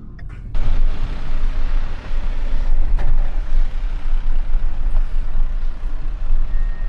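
A truck driving: a heavy engine rumble under a broad rush of wind and road noise, which starts suddenly about half a second in. A thin steady whistle joins near the end.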